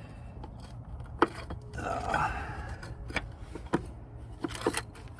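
Hand tools and metal parts clinking in an engine bay: a few sharp separate clicks, with a brief scraping rustle about two seconds in.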